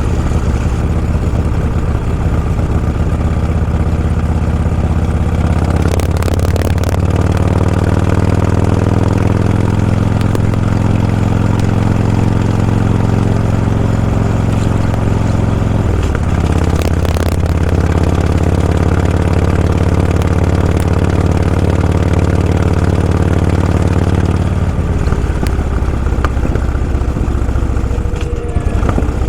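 Vehicle engine running under way, heard from on board, with its pitch changing around six and sixteen seconds in as the speed or gear changes.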